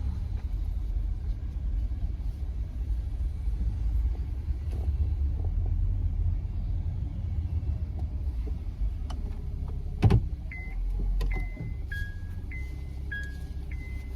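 Steady low engine and road rumble inside a moving Honda Freed minivan. A sharp knock sounds about ten seconds in, and then electronic beeps alternating between two notes start up, about two a second.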